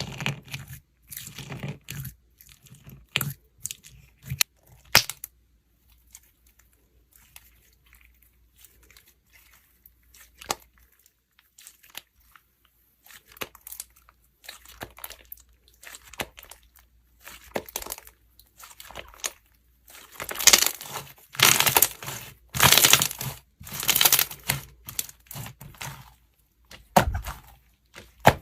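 Slime being worked by hand, giving sticky crackling pops. They come sparsely at first, then thick and loud for a few seconds about two-thirds of the way through.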